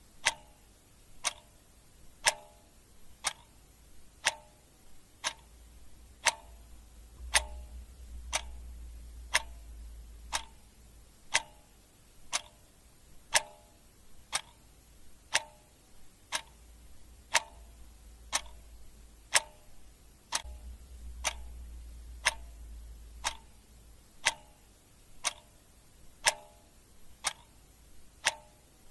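Clock ticking steadily, about one tick a second, with a faint low rumble underneath that swells twice.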